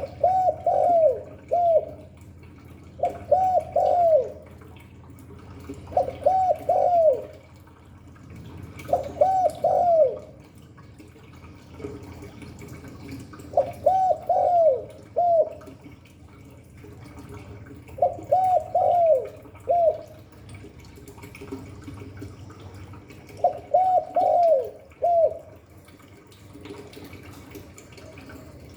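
Spotted dove (chim cu gáy) cooing: seven phrases of about three short coos each, the notes falling away at the end, repeated every three to five seconds over a low steady hum.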